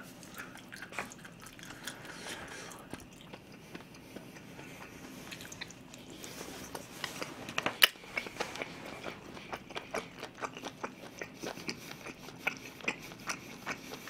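A person chewing a mouthful of food close to the microphone: soft wet smacks and small clicks, denser in the second half, with one sharper click about eight seconds in.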